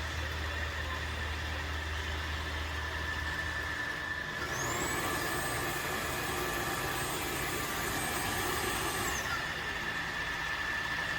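Tineco Floor ONE S5 wet-dry vacuum running, likely in its self-cleaning cycle: a steady motor whine with a low hum that stops about four seconds in. A moment later a higher whine spins up, holds for about five seconds, then winds down.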